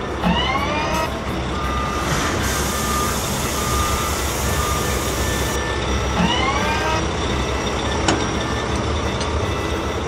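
Animated wheel loader sound effects: a low engine rumble throughout, with a rising hydraulic-style whine as the bucket moves, once at the start and again about six seconds in. In the middle, a hiss of sand pouring into the dump truck runs under a row of short, evenly spaced reversing-alarm beeps.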